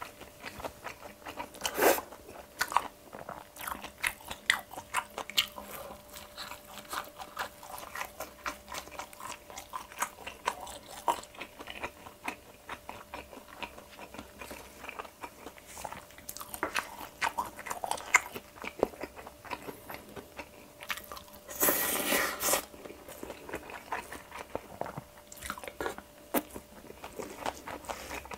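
Close-miked wet chewing of a mouthful of food: a quick, irregular run of small smacking and crunching clicks. About two-thirds of the way through, a louder noisy sound lasts about a second.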